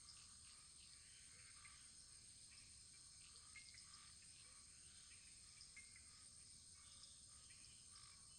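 Faint wood fire burning: a steady high hiss with small scattered crackles.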